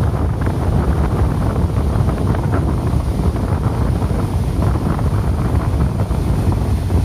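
Strong wind from an approaching typhoon buffeting the microphone in a loud, steady rumble, with the sea's surf washing beneath it.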